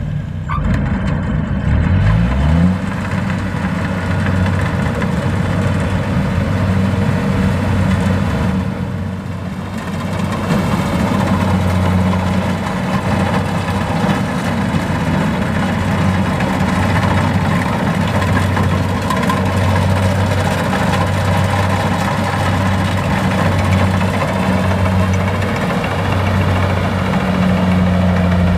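Diesel engine of rice-harvesting farm machinery running steadily, its speed briefly rising in pitch in the first couple of seconds.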